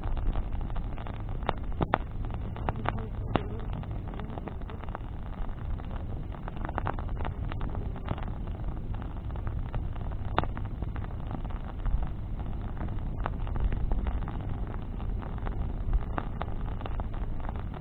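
Bonfire of burning branches crackling, with scattered sharp pops and snaps, a few of them louder, over a steady low rumble.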